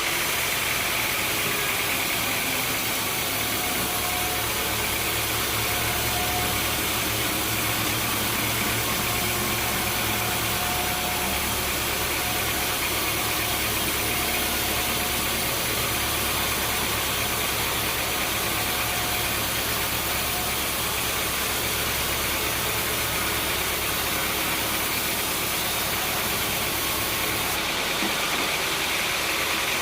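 Sawmill machinery running steadily: a constant mechanical hum and hiss, with a deeper low hum that comes in about three seconds in and drops out near the end.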